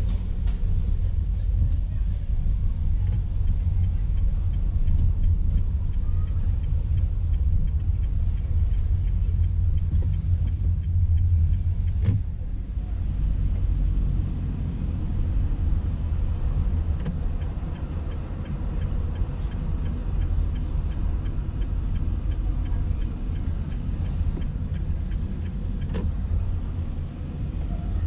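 Motor vehicle being driven, a steady low rumble of engine and road noise, with a sharp click about twelve seconds in, after which it runs a little quieter.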